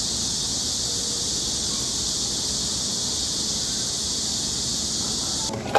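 Steady summer cicada chorus, a high even buzzing drone that cuts off abruptly about five and a half seconds in, followed by a clink or clatter at the very end.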